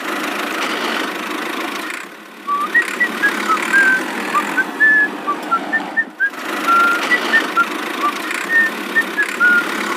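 A small motor running steadily, with two brief dips in level, the first near two seconds and the second near six. From about three seconds in, many short, high chirping or whistling notes at varying pitches sound over it.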